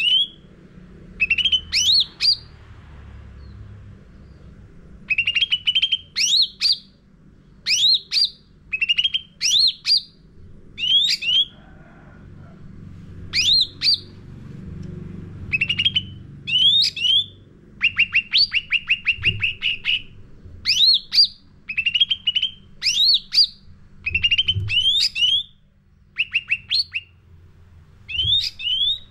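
Cucak ranting songbird singing: short, fast phrases of rising chirpy notes repeated about once a second, with a longer run of rapid repeated notes about two-thirds in.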